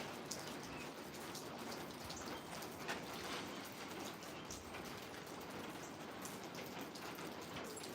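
Steady rain falling, with many separate raindrop ticks pattering on surfaces.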